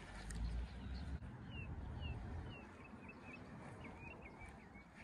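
A bird calling in a quick run of short chirping notes, starting about a second and a half in and repeating a few times a second, over a low rumble that fades after the first couple of seconds.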